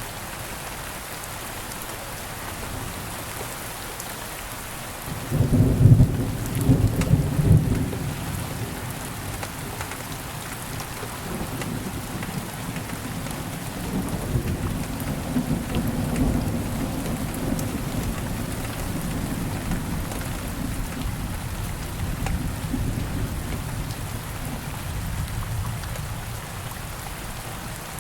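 Steady rain falling, with a thunderclap about five seconds in that is loud at first and then rolls on as a long low rumble, easing off near the end.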